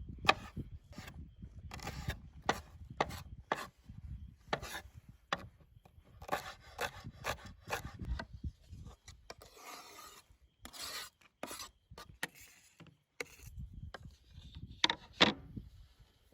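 Irregular knocks and scraping strokes on a wooden board, as of food being cut and scraped with a knife.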